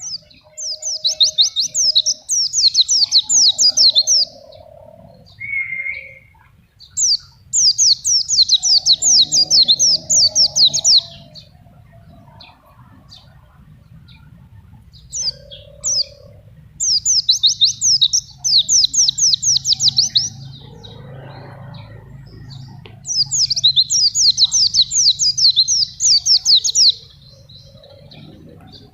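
Pleci (white-eye) singing in four bouts of fast, high trilled notes, each bout three to four seconds long with short pauses between, with a few softer lower calls in the gaps.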